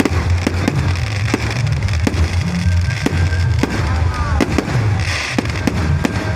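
Fireworks going off in quick succession: many sharp bangs and pops, with a brief whistle about four seconds in, over a steady low rumble.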